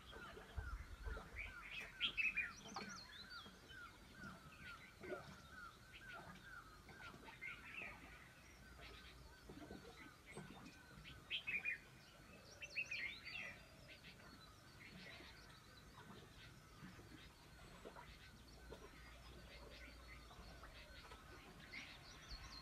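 Faint chirping and calls of several small birds. In the first few seconds one bird repeats a short note about four times a second.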